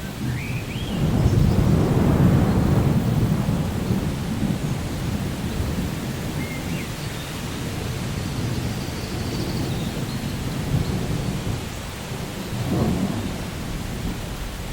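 Rainforest ambience of steady rain with low rolling thunder, the rumble swelling about a second in and again near the end. A few brief bird chirps sound over it.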